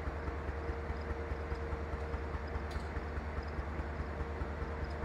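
Train rolling past close by: a steady low rumble with an even, rapid clacking of wheels over the rail joints, about four clicks a second, and a steady tone above it.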